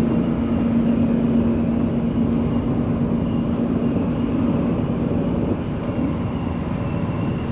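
Steady drone of a moving bus, engine hum and road noise heard from inside the cabin.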